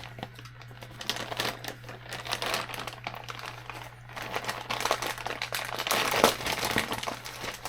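Plastic packaging crinkling and rustling, with irregular light clicks and taps of hard plastic parts being handled, busiest in the second half.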